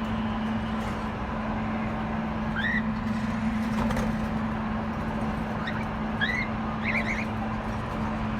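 A steady hum with a constant low tone under a noisy background, with a few brief chirps from small caged birds: one rising chirp a few seconds in and a quick run of short high notes near the end.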